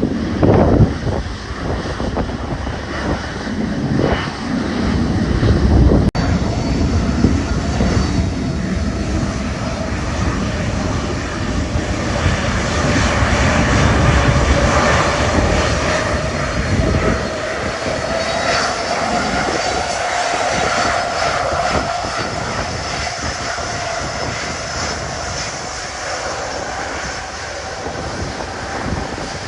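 Jet aircraft flying over: a heavy low rumble that eases after about 17 seconds, leaving a steady whine that rises slightly in pitch.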